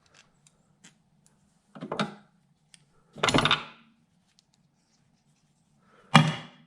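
Metal tools and parts clattering while being handled: three separate short clatters, about two seconds in, a little past three seconds, and near the end, the last the loudest.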